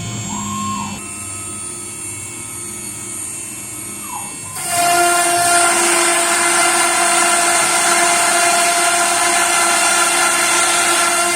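CNC router spindle running with a steady whine while it cuts 18 mm chipboard. About four and a half seconds in it becomes much louder, with a hissing cutting noise over the whine.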